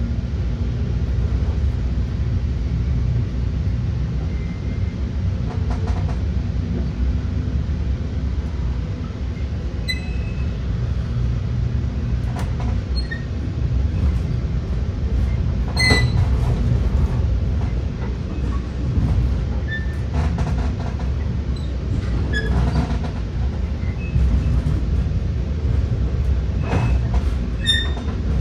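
Steady low rumble of a Metra commuter train in motion, heard from inside a passenger car, with scattered short sharp clicks and brief high squeaks from the wheels and car body.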